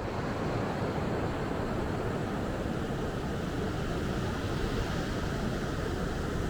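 Wind and sea surf on a beach: a steady rushing noise that comes up right at the start and stays even, heaviest in the low range.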